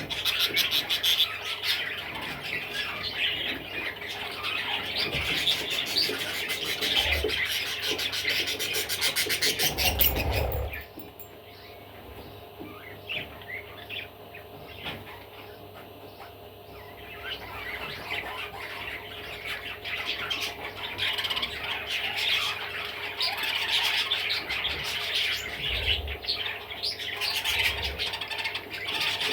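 Budgerigar chattering and chirping in quick, busy runs. After about ten seconds it drops to a quieter stretch, then it picks up again over the last ten seconds or so.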